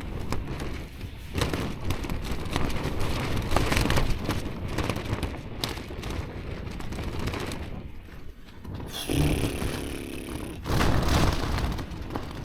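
Gale-force wind buffeting a Durston tent: the fabric flaps and snaps in irregular gusts over a low rumble of wind.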